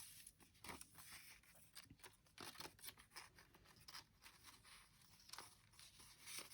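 Faint paper-handling sounds: scattered soft clicks and rustles of magazine cutouts and scissors being handled.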